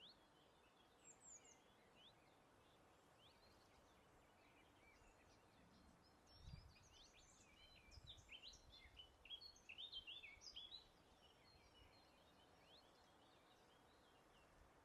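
Faint birdsong: many short, quick chirps and twitters from small songbirds, busiest in the middle stretch, over a low outdoor hush with a brief low rumble of breeze partway through.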